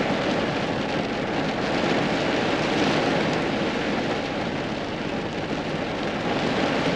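Heavy rain falling on the pickup truck, heard from inside the cab as a steady, even hiss.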